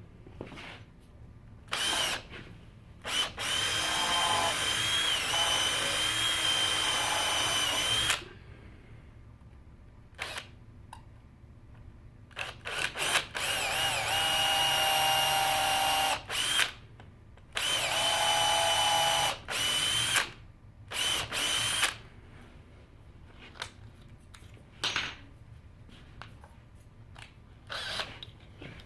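Electric drill running in several bursts with a steady motor whine, the longest lasting about five seconds, and short clicks and handling knocks in the gaps between runs.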